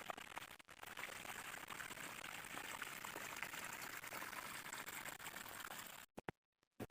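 Running water: a steady hiss full of small crackles that cuts off abruptly about six seconds in, followed by a few faint clicks.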